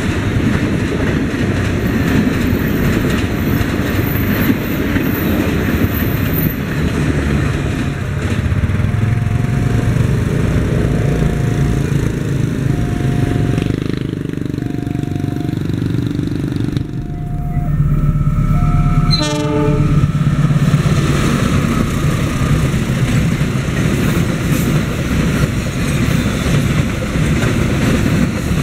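Trains passing a level crossing: the coaches of a passenger train rumble and clatter past, and later a long freight train rolls by with steady wheel clatter. A short tone repeats about every two seconds through the middle, and a horn sounds for a few seconds just after the middle.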